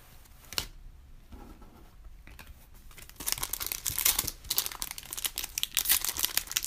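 A Panini Prizm retail trading-card pack's wrapper being torn open and crinkled. The tearing and crinkling starts about three seconds in, after one sharp click near the start.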